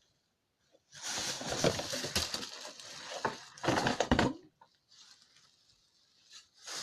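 Packaging rustling and crinkling as items are pulled out of a packed slime kit: a long crackling stretch from about a second in, a shorter louder burst around four seconds, then light handling.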